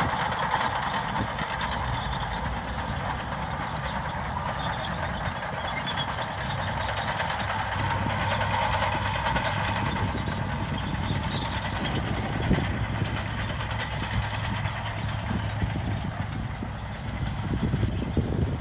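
Diesel engine of heavy earthmoving machinery running steadily, with one short knock partway through.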